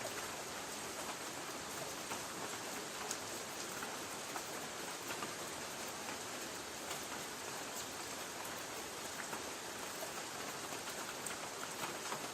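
Light rain falling on a tin roof: a steady hiss with scattered faint drop ticks.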